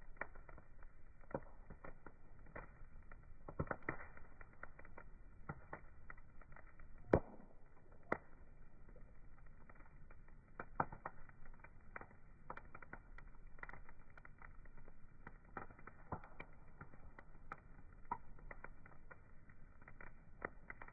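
Wood fire crackling, with irregular small pops and snaps and one sharper pop about seven seconds in.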